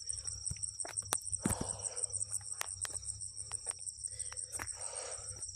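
Insects chirring steadily in a high, fast-pulsing trill, with scattered sharp clicks and taps.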